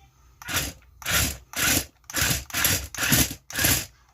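A toy RC stunt car's electric drive motors whirring in short bursts as the remote's forward and reverse controls are pressed: seven quick spurts, about two a second.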